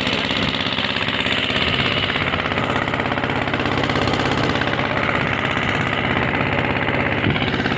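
Motor boat's engine running steadily, a loud, even, rapid chugging.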